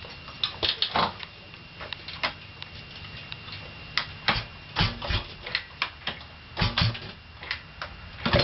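Scattered irregular clicks and knocks, a few a second, from handling and readying the machine. Right at the end the Yamaha Banshee 350 twin two-stroke engine fires and runs loudly.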